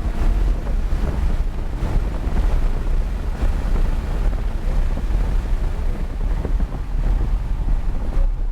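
Lamborghini Huracán being driven on track, heard from inside the cabin: a steady, dense low rumble of engine and road noise, with wind buffeting the microphone.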